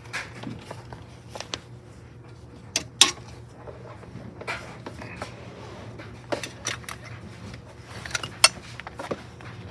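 Sharp metallic clinks and knocks of hand tools and parts being handled while working under a car, the loudest about three seconds in and again near the end, over a steady low hum.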